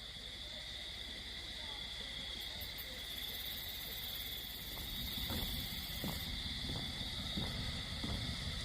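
Quiet night ambience: a steady high insect chorus, with a few faint short knocks or crunches from about five seconds in.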